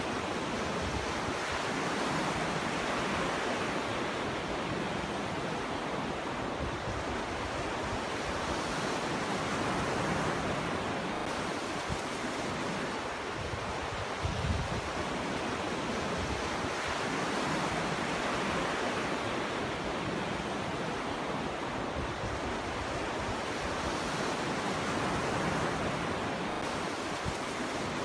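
Ocean waves breaking on a shore: a continuous surf roar that swells and ebbs slowly every several seconds, with a deeper thump about halfway through.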